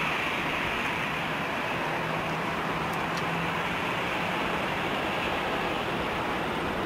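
Steady rushing noise of jet airliner engines, even in level, with a faint low hum under it.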